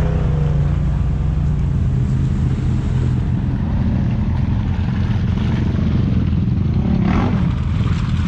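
Off-road vehicle engine running steadily at low revs while driving along a trail, a continuous low drone with a brief swell of noise about seven seconds in.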